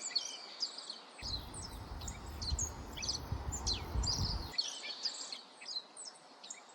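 Birds chirping: many short, high, downward-sliding notes from several birds, close together. A low rumble, like wind or handling on the microphone, comes in about a second in and stops at about four and a half seconds.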